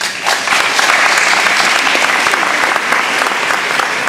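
Audience applauding: many hands clapping in a dense, steady patter that swells in quickly and keeps going.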